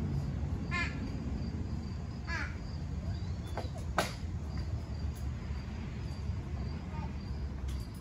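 A bird calling twice, each a short run of harsh repeated notes, about a second in and again near two and a half seconds, over a steady low background rumble. A single sharp click about four seconds in.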